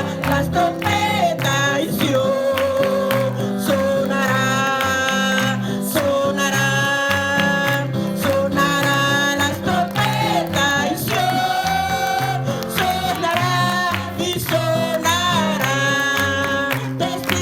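Christian revival chorus sung over instrumental accompaniment, with a bass line stepping through the chords and a steady beat.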